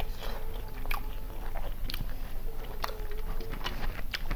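Close-miked eating: chewing and biting into country chicken biryani, with irregular wet clicks from the mouth.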